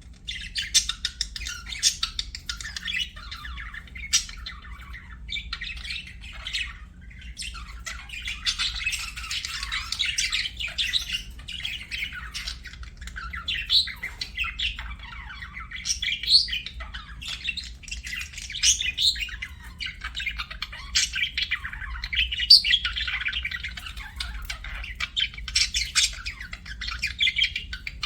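Budgerigar chirping and chattering without a break: a dense stream of quick, high chirps and squawks, some louder than others.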